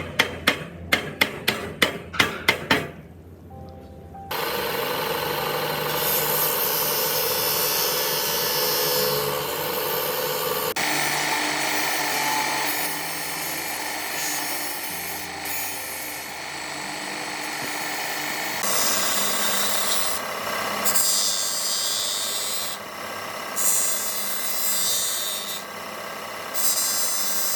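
A hammer strikes metal about three times a second for the first few seconds. Then, after a short pause, a power tool runs steadily against the work, grinding or sanding, and its sound changes a couple of times as the work shifts.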